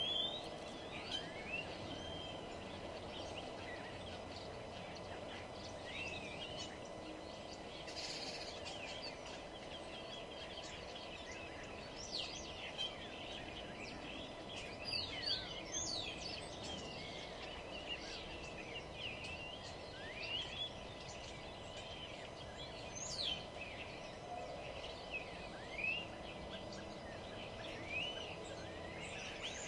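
Several small birds chirping and calling, with short rising and falling notes scattered irregularly throughout, over a steady low background hum.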